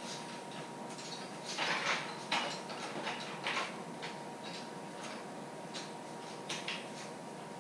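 Metal clinking and rattling of an engine-hoist chain and hardware being handled. There are scattered sharp clicks, with a few louder scraping rattles between about one and a half and three and a half seconds in.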